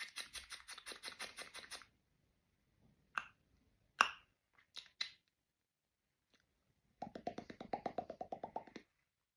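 Beatboxer's mouth-made cartoon sound effects: a fast rattling run of clicks, then four single sharp pops, then another fast buzzing, rattling run near the end.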